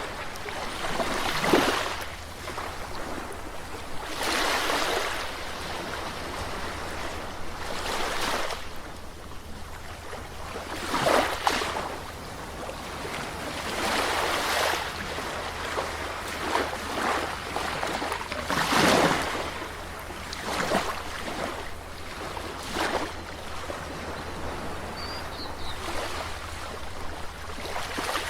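Sea waves washing in, swelling and falling back in surges every few seconds, one noticeably louder about two-thirds of the way through.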